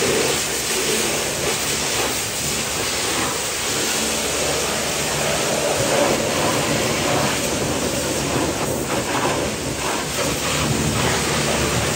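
Pressure washer spraying water onto a car, a steady hiss of spray with some fluctuation as the jet moves over the bodywork.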